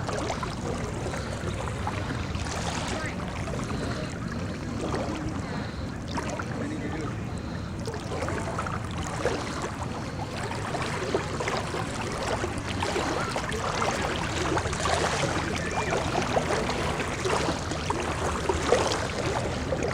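Floodwater sloshing and splashing as people wade through it. The splashes get busier in the second half, over a steady low rumble.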